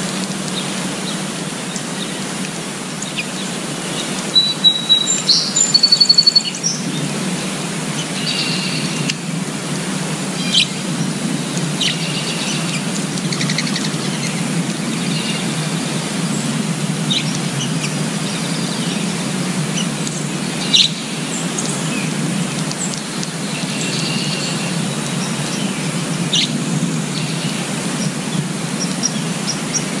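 Small songbirds giving short, high chirps scattered throughout, over a steady background hiss. A quick run of high twittering notes about four to six seconds in is the loudest part.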